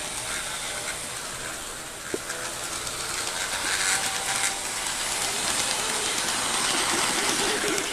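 HO scale model locomotives running along the track, their motors and wheels making a steady rolling hiss that grows slowly louder, with a single click about two seconds in.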